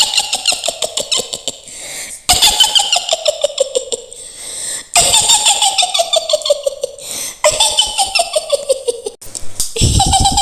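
A woman's high-pitched witch's cackle, made of quick pulsing laughs. It comes in about four runs, each sliding down in pitch, one after another.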